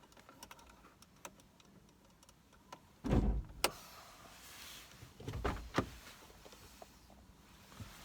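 Car door and latch handling: light clicks, then a heavy thump about three seconds in, a sharp click, some rustling, and another pair of thumps with clicks near the six-second mark.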